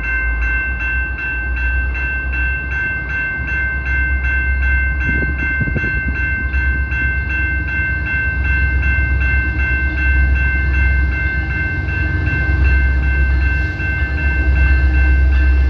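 CPKC train rumbling past with a heavy, steady low rumble. A bell rings rapidly and evenly, about three strokes a second, over the rumble.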